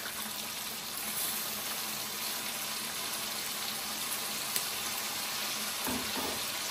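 Pork frying in a wok with soy and oyster sauce, a steady sizzle.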